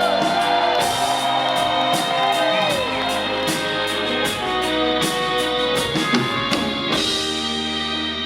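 Rock band playing live: electric guitar over bass and drums, with regular drum and cymbal hits, in an instrumental stretch between sung lines.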